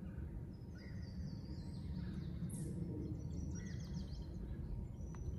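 Songbirds singing in spring woodland: two runs of high, quick trilling notes, about a second in and again just past the middle, over a steady low rumble.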